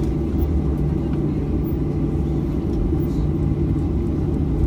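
Steady low rumble and hum of a Boeing 737-800 cabin on the ground after landing.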